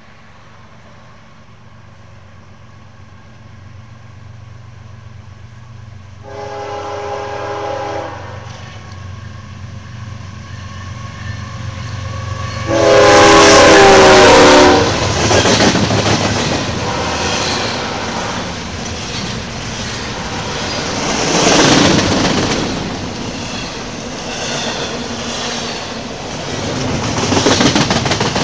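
CSX freight train approaching with its diesel locomotive rumbling, sounding its horn twice: a short blast about six seconds in and a longer, very loud one about thirteen seconds in as the locomotive reaches the microphone. Then a long string of double-stack container cars clatters past on the rails, swelling and fading.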